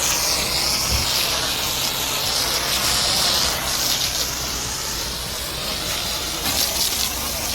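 High-pressure washer spraying water onto a car: a steady hissing spray with a low pump hum underneath.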